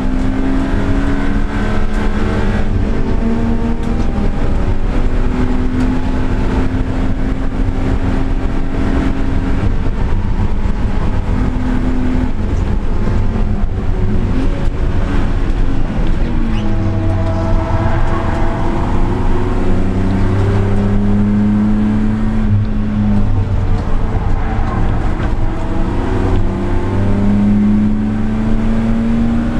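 Car engine and exhaust driven hard, the pitch climbing as it revs, dropping back at gear changes and when slowing for corners, again and again, over a steady rush of road and wind noise.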